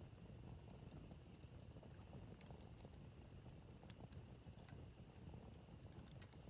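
Campfire burning quietly: sparse, irregular crackles and pops of burning wood over a low, steady rumble of flame.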